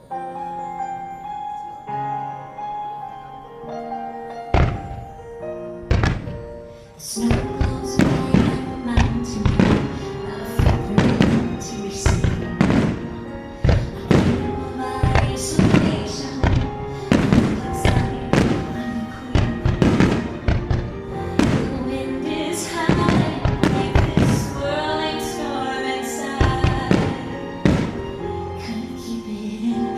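Music for a fireworks display, at first gentle and bell-like, then from about four and a half seconds in, firework shells bursting with sharp bangs over it, several a second, in a dense barrage.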